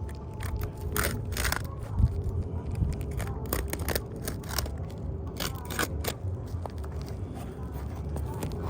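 An asphalt shingle being cut with a blade, heard as a run of short, irregular scraping strokes that are densest between about one and six seconds in, then thin out.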